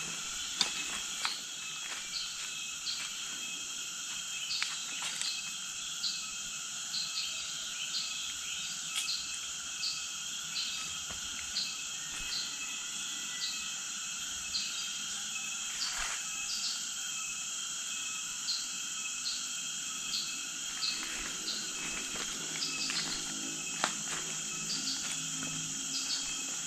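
Outdoor insect chorus: a steady high-pitched drone with a short chirp repeating about every two-thirds of a second, and a few scattered soft clicks.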